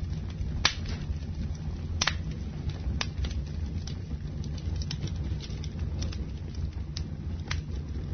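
Campfire crackling: a steady low rumble with sharp pops, a loud one under a second in and another about two seconds in, then smaller scattered pops.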